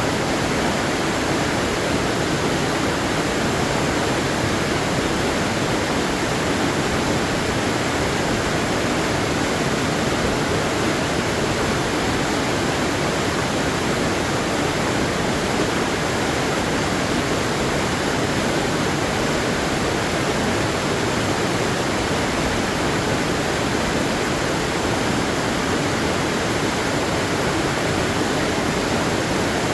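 Waterfall of flowing water, a steady, even rushing that does not change.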